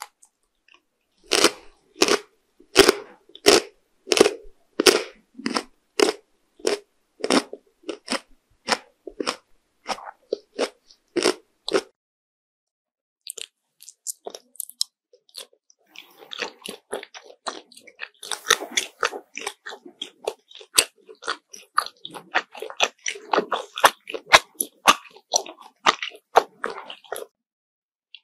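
Close-miked chewing of crunchy candy, with sharp crunches about two a second that thin out and fade over the first ten seconds. After a short pause, quicker and denser crunching follows as the next candies are bitten and chewed.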